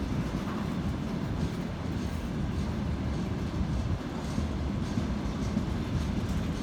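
Train rolling past on the rails, hauled by an electric locomotive: a steady, dense low rumble of wheels and cars.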